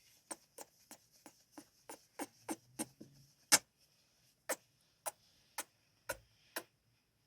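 Close-up kissing sounds into the microphone: a quick run of sharp lip smacks, about three a second, then slower, more spaced kisses, with the loudest about three and a half seconds in.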